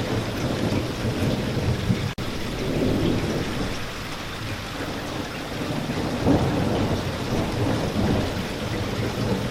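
Steady rain falling, with a continuous low rumble under the patter. There is a sharp momentary dropout about two seconds in.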